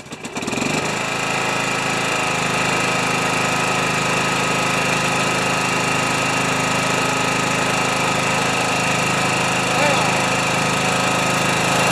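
Small gasoline engine catching just after a cranking on a weak battery, then running steadily. It is a hard start: the engine had been sitting a while and was not primed.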